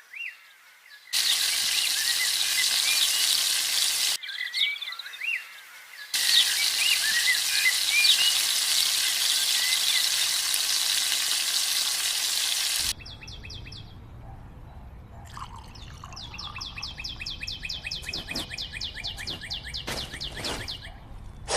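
Rushing mountain stream water with small birds chirping over it, cut off briefly twice. About thirteen seconds in it gives way to a quieter stretch with a fast, even run of light scraping strokes.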